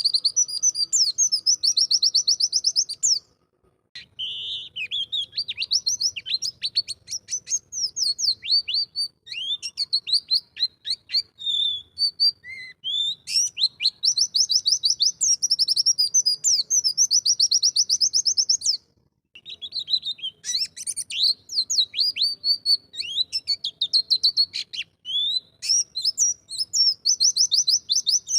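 White-eye (pleci) singing long, very fast high-pitched twittering trills in phrases several seconds long, broken by two brief pauses.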